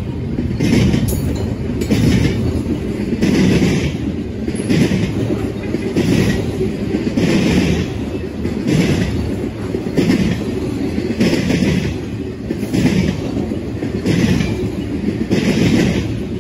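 BNSF intermodal freight train's container and trailer cars rolling past at close range: a steady low rumble with the wheels clattering in a repeating rhythm.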